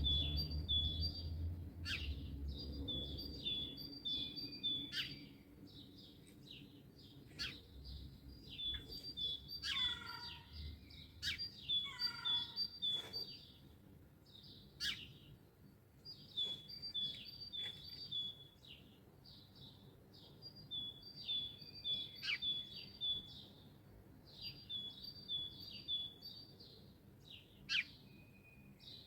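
Several songbirds singing in a dawn chorus: quick, repeated high two-note chirping phrases in bouts, sharp single call notes, and twice a song that steps down in pitch. A low rumble underlies the first few seconds.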